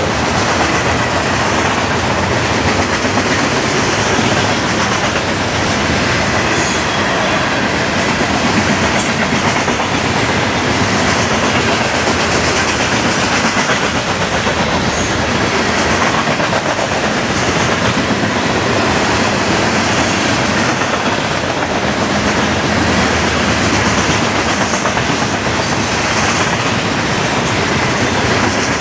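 Train rolling past close by: a steady, loud rumble of wheels on rail with clickety-clack over the rail joints.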